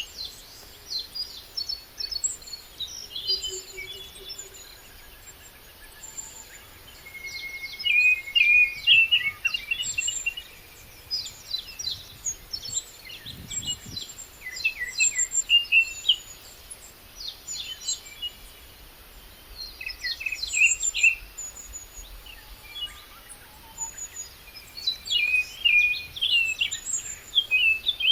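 Songbirds singing in bursts of rapid, high chirping phrases every few seconds, with thinner high-pitched notes between them.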